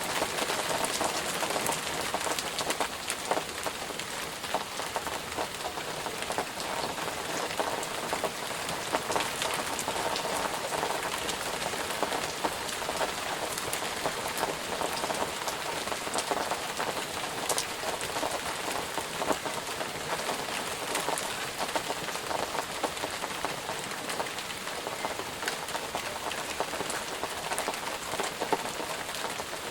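Steady rain falling, with the patter of many individual drops hitting a surface.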